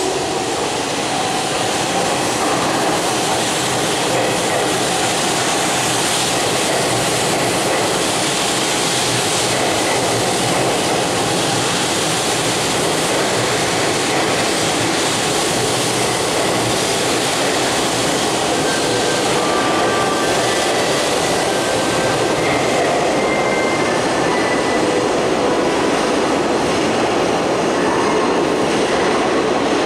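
Hanshin 8000-series electric train running along the platform: a steady rumble of steel wheels on rail, with clickety-clack over the points and faint wheel squeal in the second half.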